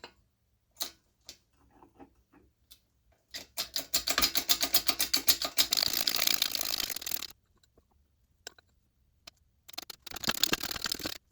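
Two runs of fast, even metallic clicking, the first about four seconds long and the second about a second and a half, with a few single clicks between: a new front bearing of an Eaton M62 supercharger being driven into its bearing plate with a socket.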